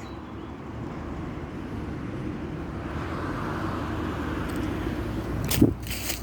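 Steady low rumble of outdoor background noise, like distant traffic, swelling a little, with one short knock about five and a half seconds in.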